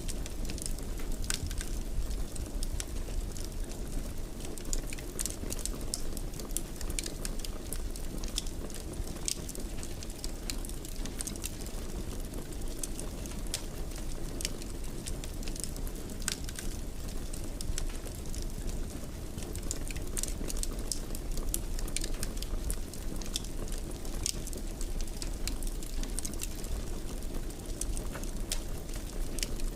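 Wood fire burning steadily in a fireplace, with a low rumble and frequent sharp crackles and pops.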